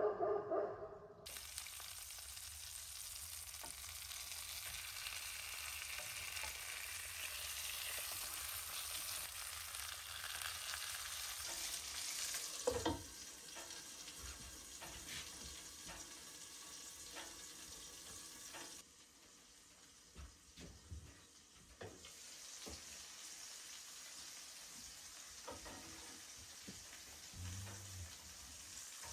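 Food frying in a pan: a steady sizzle with scattered knocks and scrapes, as of stirring. A short dog sound right at the start.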